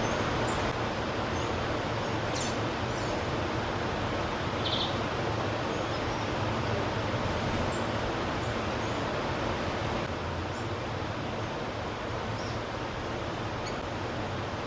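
A steady rushing background noise with a few brief, faint high chirps from wild birds, and a single sharp click early on.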